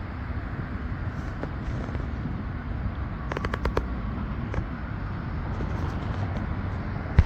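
Steady low outdoor rumble. A quick run of about half a dozen sharp clicks comes about three and a half seconds in, and a single sharp click comes at the very end.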